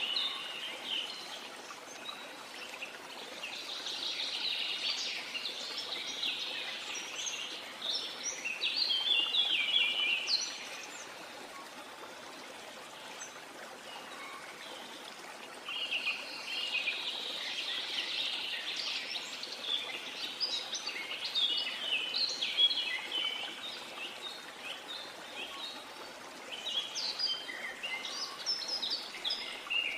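Small birds chirping and twittering in many short calls over a steady background hiss, with a few seconds of only the hiss about a third of the way in.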